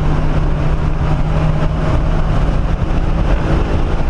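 1997 SVT Cobra Mustang's 4.6-litre DOHC V8 running hard on a race track, heard loud from inside the cabin, with tyre and wind noise. The steady engine note holds for about two seconds, then changes.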